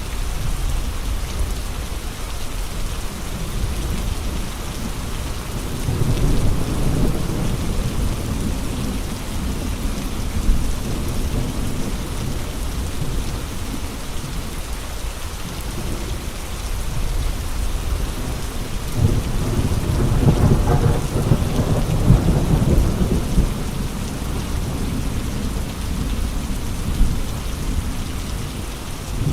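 Steady heavy rain with gusting wind, rising in two long, deep surges: one about six seconds in and a stronger one around twenty seconds.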